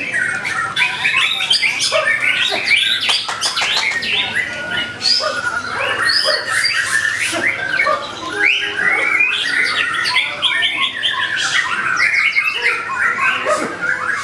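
White-rumped shama (murai batu) song: a dense, unbroken stream of whistles and fast trills, mixed with many harsh rattling calls.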